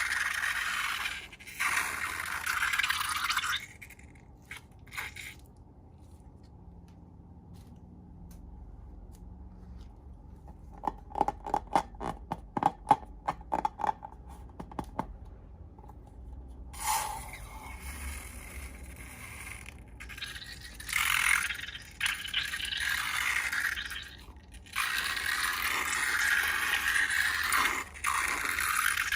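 Slime being worked and scraped in bursts of a few seconds, with a run of quick crackling clicks in the middle.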